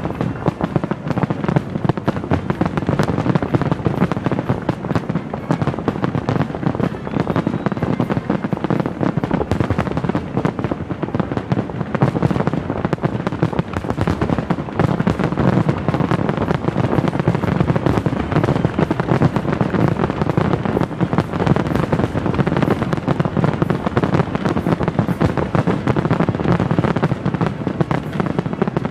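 Fireworks finale: a dense, unbroken barrage of rapid-fire bangs and crackles from many shells bursting at once.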